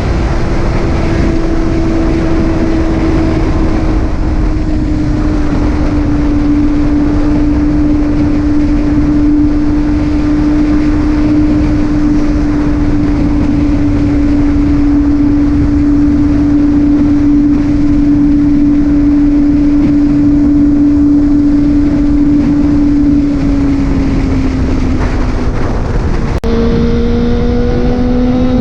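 Motorcycle engine droning at a steady cruising speed under heavy wind and road noise, its pitch sinking slowly as it eases off. After an abrupt cut near the end, the engine pitch climbs as the bike accelerates.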